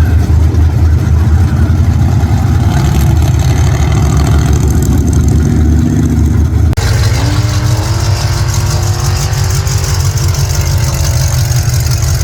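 Vintage race truck's engine running loud and deep. About seven seconds in the sound changes abruptly, and the engine note rises steadily for a few seconds before levelling off.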